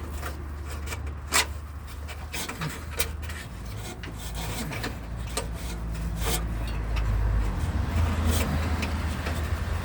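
Hand tools working on the fasteners of a loose exhaust heat shield under a car: scattered metallic clicks and knocks with scraping and rubbing, over a steady low hum.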